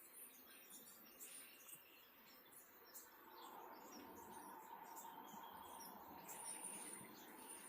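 Faint birds chirping: scattered short, very high chirps over a soft background hiss, with a steady high-pitched trill coming in about six seconds in.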